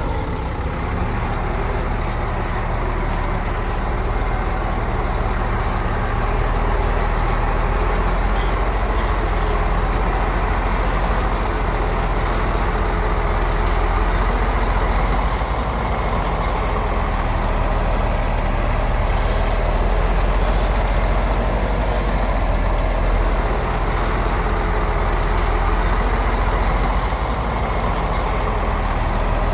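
Heavy diesel engine of a bulldozer or dump truck running steadily, with a strong low hum.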